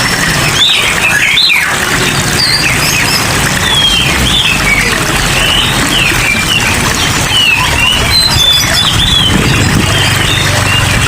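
Many songbirds chirping and twittering in quick, overlapping short calls over a steady hiss of falling rain water.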